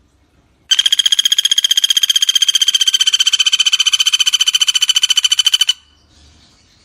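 Common flameback woodpecker giving a fast, even rattling trill of well over ten notes a second. It starts under a second in, is held for about five seconds and stops abruptly.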